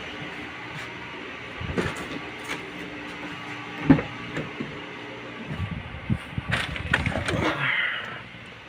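Scattered knocks and clatter of objects being handled: a sharp knock about four seconds in, and a run of rattling near the end, over steady background noise.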